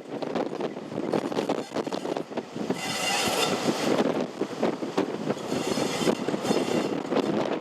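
A heritage mainline diesel locomotive running close by on the line, with high-pitched tones joining in about three seconds in.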